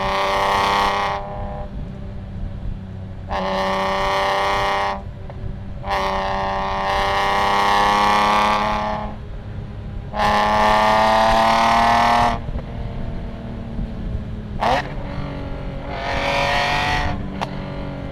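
BMW E46 M3's S54 straight-six with Euro headers and a V1 muffler, the exhaust really loud as the car accelerates hard in several pulls of one to three seconds. Between pulls it drops to a lower drone off throttle, with a quick sharp throttle blip about two-thirds of the way through.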